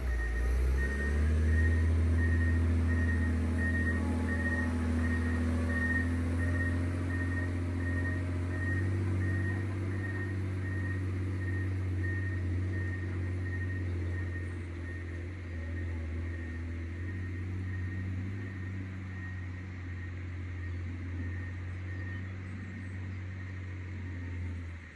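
John Deere 670GP motor grader's diesel engine running steadily. Its reversing alarm beeps regularly, about one and a half times a second, and fades out after roughly ten seconds.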